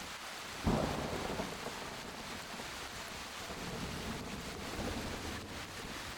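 Steady rain falling, with a sudden crack of thunder less than a second in that fades off in a rumble, and a softer roll of thunder a few seconds later.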